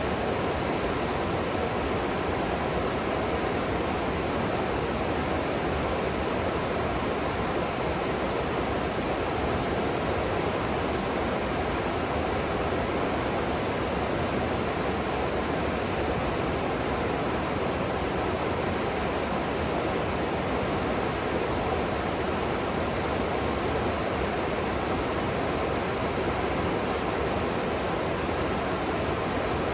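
River water rushing steadily below, an even, unbroken noise.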